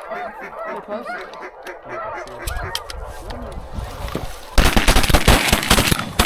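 Geese honking repeatedly, then about four and a half seconds in a sudden loud volley of shotgun fire, many shots in quick succession overlapping one another.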